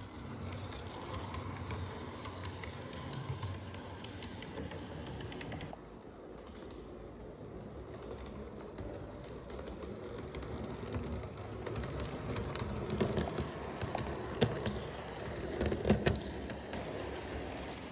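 Model trains running on a layout's track: a steady rattle of many small rapid clicks, with a few louder knocks near the end.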